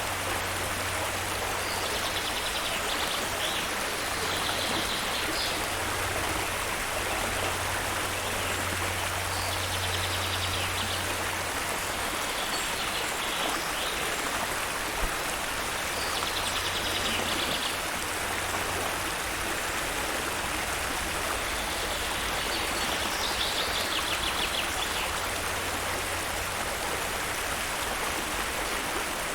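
Steady rush of falling water from a waterfall. A high, rapid trill recurs every few seconds over it.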